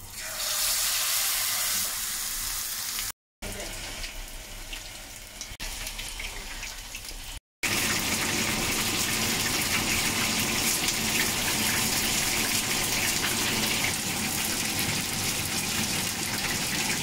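Battered chicken wings sizzling as they deep-fry in hot oil in a pan: a steady crackling hiss that jumps up at the start as a wing goes into the oil. It is quieter for a few seconds, then loud and even for the rest, broken by two short dropouts.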